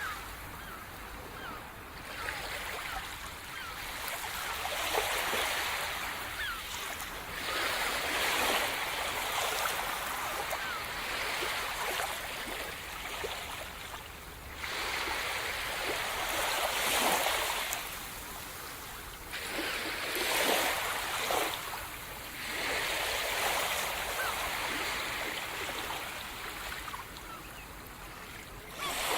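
Sea surf breaking on the shore, a hissing wash of water that swells and fades every few seconds as waves come in.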